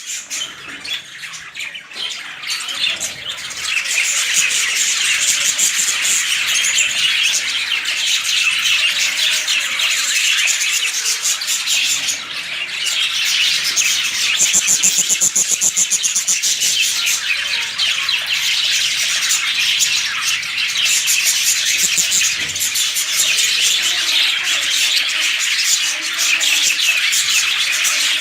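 A colony of lovebirds chirping and squawking together, a dense, continuous flock chatter that swells over the first few seconds and then stays loud.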